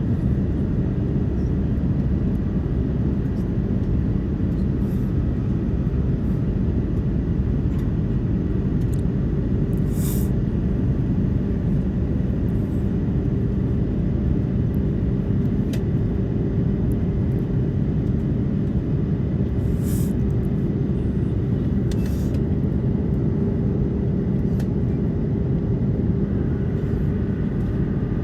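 Steady cabin noise inside an Airbus A330-200 heard from a window seat: a constant engine and airflow rumble with a low hum, and a few faint clicks.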